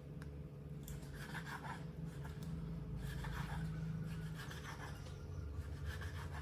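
Light scratching and rubbing noises in small irregular bursts over a steady low hum.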